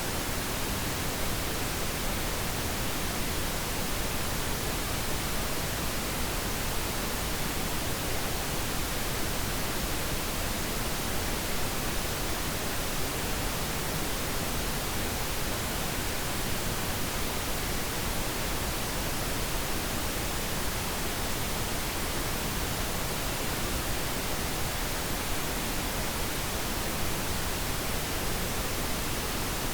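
Pink noise: a steady, unchanging hiss with no breaks or changes.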